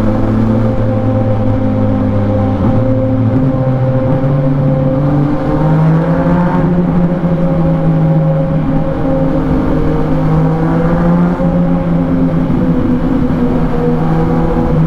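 Yamaha MT-09 three-cylinder engine running through an Akrapovic exhaust while riding; its note steps up in pitch about three seconds in, then holds fairly steady.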